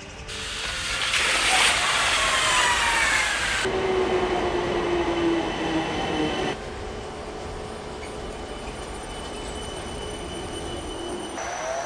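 Electric train slowing down: its motor whine falls steadily in pitch over a loud rush of wheel and track noise. The sound changes abruptly a few times, and a rising whine begins right at the end.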